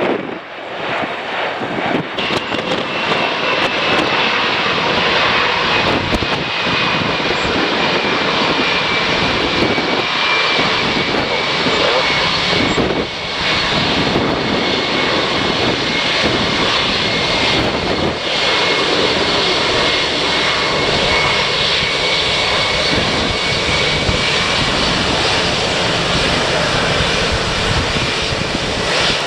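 Jet airliner's engines running loud, with a high whine that comes in about two seconds in and slowly falls a little in pitch, over wind buffeting the microphone.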